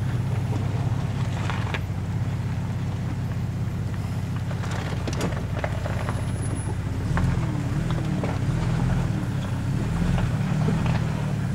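Off-road 4x4's engine running at low speed as it crawls down a rocky trail, a steady low drone that turns uneven and wavering about seven seconds in. A few short knocks sound over it.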